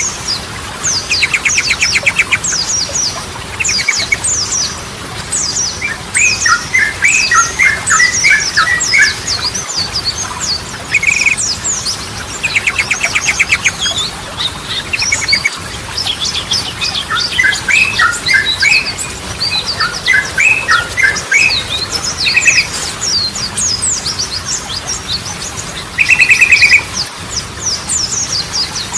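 Yellow-vented bulbul (trucukan) singing: bubbly clusters of chattering notes and short, rapid rolling trills every few seconds. Throughout, a continuous stream of fast, high, falling chirps.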